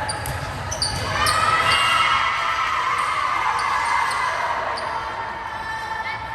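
Indoor volleyball court ambience echoing in a large gym: short sneaker squeaks on the court and ball thuds, under a swell of players' and spectators' voices that peaks about a second in and fades over the next few seconds.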